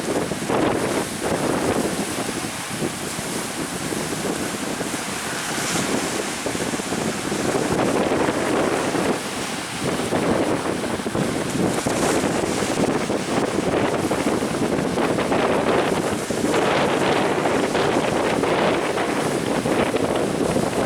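Strong wind buffeting the microphone over the rush of waves and spray against a small fishing speedboat running through rough sea. The noise is steady and loud, with no clear engine note standing out.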